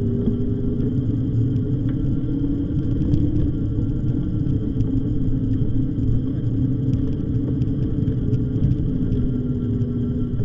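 Steady rumble of wind on the microphone and tyre noise from an e-bike being ridden, with a steady low two-note hum running through it.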